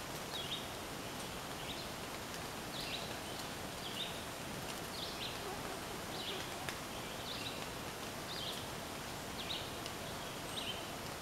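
Woodland ambience: a steady hiss with a bird repeating a short, high call about once a second, and a few faint ticks.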